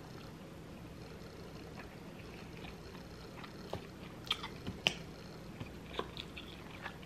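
A person chewing a mouthful of cheesy beef bulgogi fries close to the microphone. The first half is faint; from about halfway there are short wet mouth smacks and clicks.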